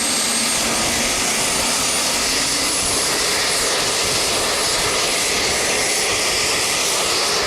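AH-64 Apache attack helicopter's turbine engines and rotor running, a steady, even rush of noise with a thin high whine on top.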